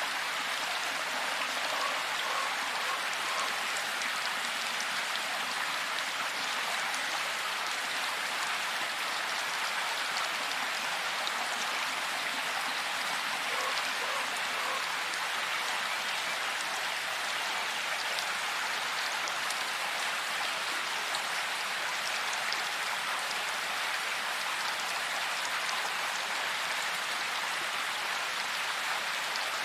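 Steady rain falling, an even hiss of many fine drops with no let-up.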